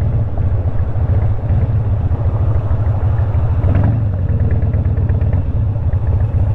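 Harley-Davidson Twin Cam 88 V-twin engine of a 2001 Dyna Wide Glide running at low speed in traffic, a deep, steady rumble.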